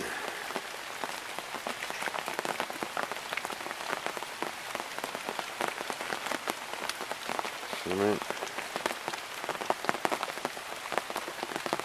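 Steady rain falling, a dense patter of separate drop hits.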